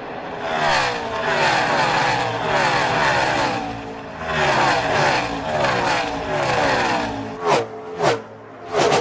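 V8 NASCAR stock cars racing past, their engine note falling in pitch as each goes by and a new one comes in. Near the end, two cars flash past close in quick succession, each a short loud burst.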